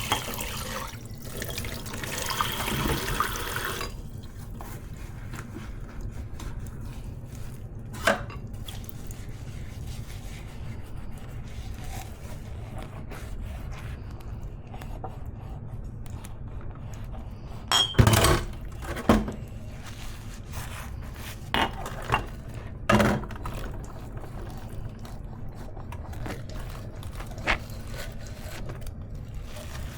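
Kitchen tap running into the sink, shut off about four seconds in. After that, dishes knock and clink in the sink every so often, with a cluster of louder knocks around the middle.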